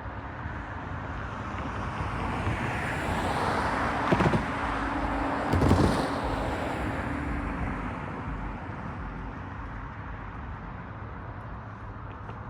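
A road vehicle drives past over the railroad crossing, its tyre noise swelling and fading. Two sharp thumps about a second and a half apart come at the loudest point as the wheels cross the rails.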